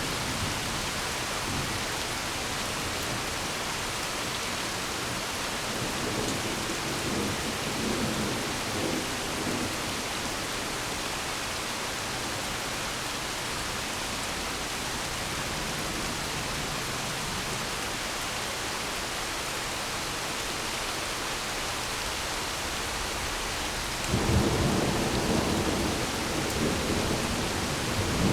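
Steady heavy rain hissing, with thunder: a soft low rumble rolls through about six to nine seconds in, then a sudden loud thunderclap about twenty-four seconds in breaks into a long rumble.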